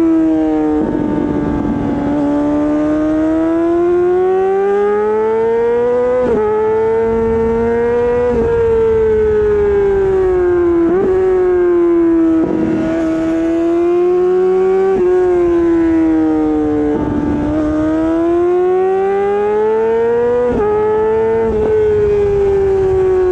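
Honda CBR600RR inline-four engine through an Akrapovič exhaust, under way with the revs rising and falling as the bike is ridden, with several quick jumps and drops in pitch at the gear changes.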